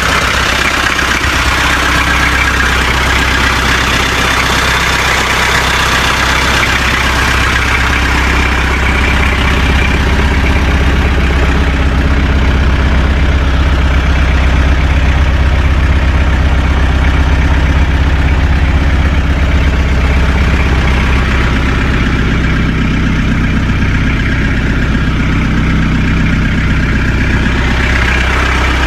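Peugeot 404 engine idling steadily.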